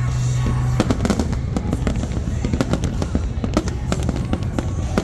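Fireworks going off in rapid, irregular succession: many sharp bangs and crackles overlapping over a continuous low rumble.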